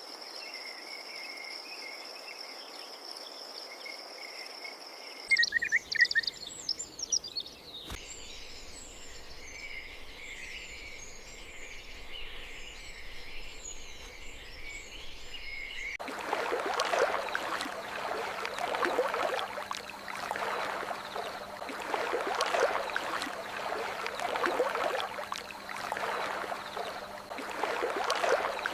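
A chorus of crickets trills steadily. About five seconds in it gives way abruptly to small birds chirping and twittering, which are the loudest sounds. At about sixteen seconds that in turn changes to rushing, surging water with a faint low hum under it.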